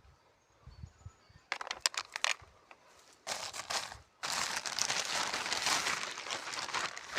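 Crackling, crunching noise, like dry brush or branches being crushed: a few short bursts, then a louder continuous crackle for about the last three seconds.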